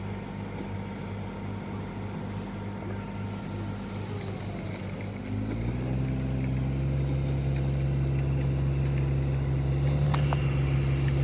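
A vehicle engine running steadily at idle, then about five and a half seconds in it revs up and holds at a higher, louder steady speed.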